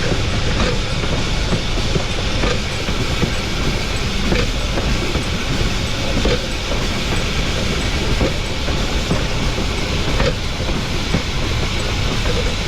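Pilot-truck wheels of C&T 488, a narrow-gauge K-36 2-8-2 steam locomotive, rolling on the rails: a steady loud rumble with irregular clicks as the wheels pass over rail joints.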